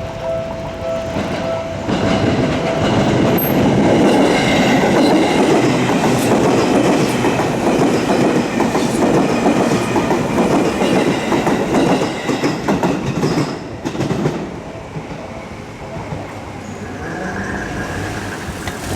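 Seibu Railway electric train passing over a level crossing, its wheels clattering over the rail joints, loud for about twelve seconds before fading. The crossing's electronic warning bell rings at first and is drowned out as the train arrives.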